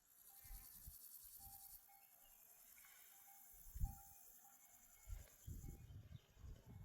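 Faint, high-pitched, finely pulsing insect chirring that stops near the end, with a soft low thump about four seconds in.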